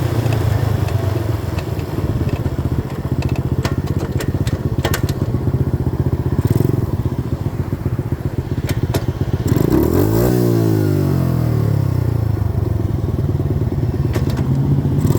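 90cc dirt bike's engine running under way, with scattered light clicks. About ten seconds in, the engine note swings up and down in pitch.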